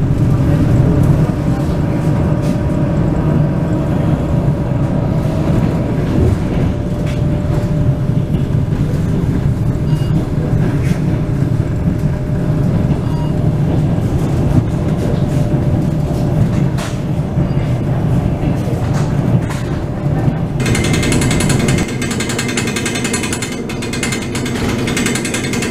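Electric suburban train running at speed, heard from inside the carriage: a steady low rumble with rattling from the wheels on the rails and the carriage body. About twenty seconds in the sound turns brighter, with more high hiss and rattle.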